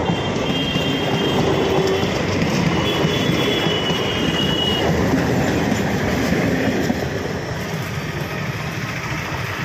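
MEMU electric multiple-unit train passing, its wheels rolling on the rails in a steady rumble, with a thin high wheel squeal twice in the first five seconds. The noise eases slightly about seven seconds in.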